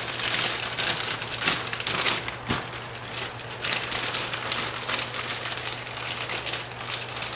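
Plastic baggie holding firework composition and freshly added water, crinkling and rustling as it is handled, in an uneven crackly rustle over a steady low hum.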